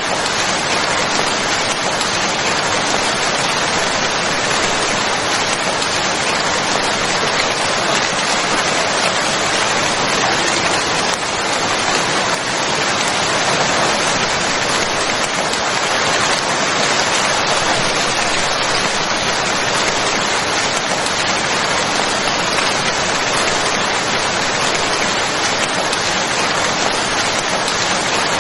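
Steady, heavy rainfall: a dense, even hiss of rain falling on surfaces.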